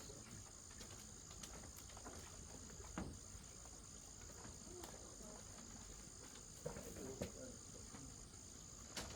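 Steady high-pitched chirring of insects, with a few faint sharp clicks and knocks.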